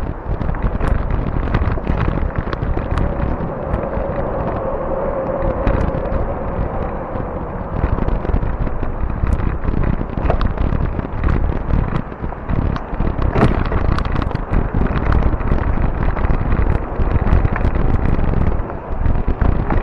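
Wind buffeting the microphone over the rumble of a fat-tire e-bike rolling on a rough trail, with frequent sharp clicks and rattles as the bike jolts over bumps.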